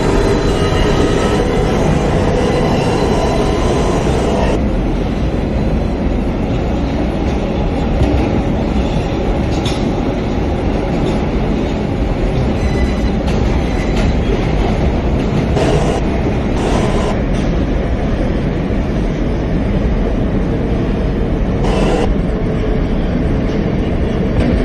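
New York City subway train running between stations, heard from inside the car: a steady, loud rumble of wheels on rail. There are thin squealing tones in the first few seconds and a few brief sharp noises later on.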